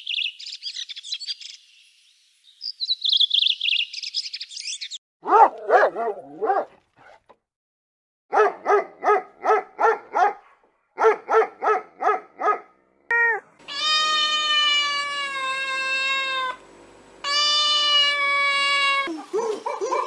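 A small green parakeet chirping in rapid high-pitched twitters, then a puppy barking in quick runs of short yaps, about three a second, then two long, steady, drawn-out animal calls of two to three seconds each.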